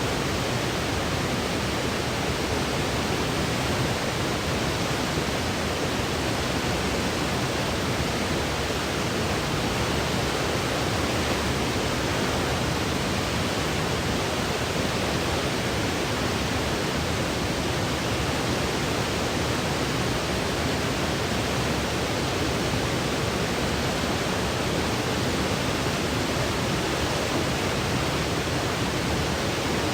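Continuous generated white noise used as a baby sleep aid: a steady, even hiss that never changes, spread from deep rumble to high hiss and fading out above the very top.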